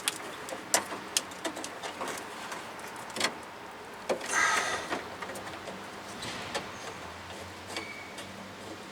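Scattered light clicks and taps of a steel brake line and its fittings being handled and pushed up into a frame holder, with a longer scraping sound about four and a half seconds in.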